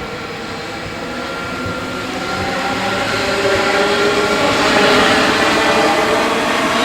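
Train approaching along the track, growing louder over the first five seconds and then holding. A steady whine of several pitched tones rides over the rumble of the running gear.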